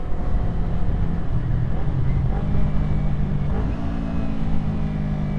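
Small motorcycle engine running under the rider, heard through a helmet camera, with heavy wind rumble on the microphone. The engine note shifts pitch a couple of times as the throttle changes.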